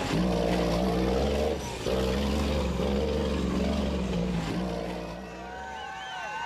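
Diesel engine of a Class 8 off-road racing truck running hard at speed, dipping briefly just under two seconds in, then fading away about five seconds in.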